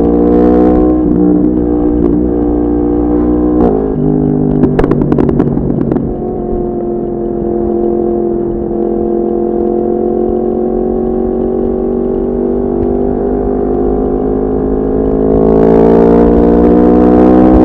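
Yamaha MT-10's crossplane inline-four through an Akrapovic exhaust, ridden on the road: the engine note falls as the bike slows, a burst of sharp crackles comes about five seconds in, the note then holds steady while cruising and rises under acceleration near the end.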